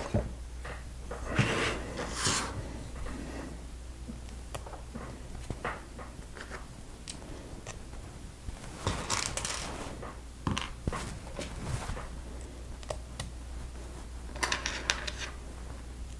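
Small plastic Lego pieces clicking and rattling as they are handled and fitted together, with a few short rustles in between.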